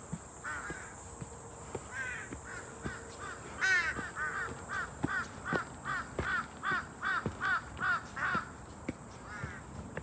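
A bird calling: a few scattered short calls, then from about three and a half seconds in a rapid run of about fifteen short calls, some four a second, stopping a little before the end. Footsteps on the dirt trail knock faintly underneath, about one every half second.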